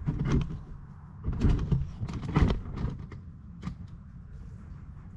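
A few separate knocks and clunks, the loudest about two and a half seconds in, from equipment being handled and moved.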